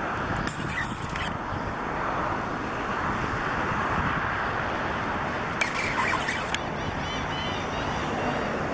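Steady outdoor rumble of wind and distant road traffic, with two brief hissy bursts, one about half a second in and one near six seconds in.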